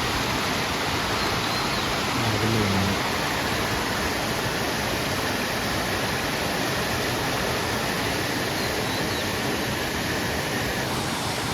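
Steady rushing of water flowing down the dam face, an even, unbroken noise.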